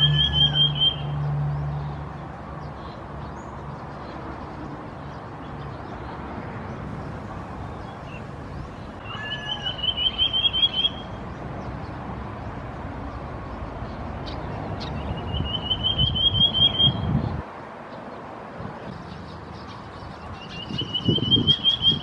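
Common iora calling: a rapid trill of sharp notes, each trill rising slightly in pitch and lasting about a second and a half, repeated four times several seconds apart.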